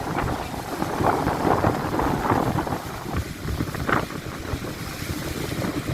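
Strong wind gusting and buffeting the microphone: an uneven, surging rush, heaviest in the low end. The sound cuts off suddenly at the very end.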